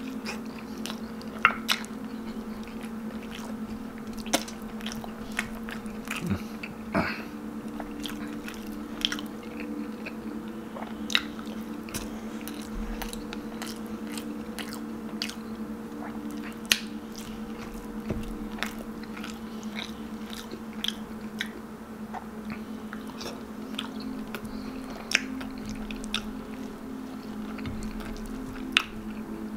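Close-miked biting and chewing of stewed pork leg and its soft skin, with frequent short, wet mouth clicks, over a steady low hum.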